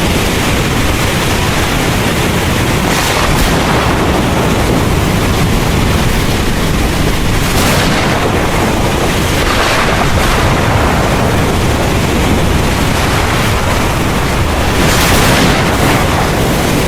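Heavy rain pouring steadily over a deep, continuous low rumble of thunder and wind, with the hiss swelling louder in brief gusts several times.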